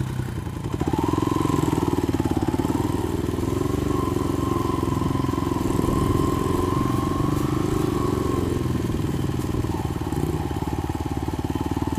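Small single-cylinder four-stroke engine of a Honda 70cc dirt bike running steadily at a moderate speed, its pitch lifting a little about a second in and easing slightly near the end.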